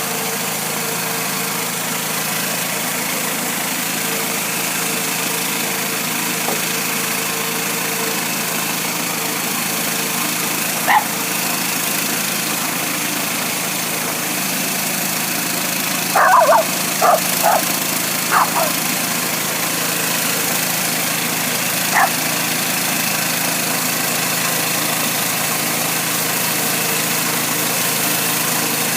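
Hudson Oscar 230 bandsaw sawmill's engine running steadily. A dog barks over it once about 11 seconds in, several times in quick succession around 16 to 18 seconds, and once more near 22 seconds.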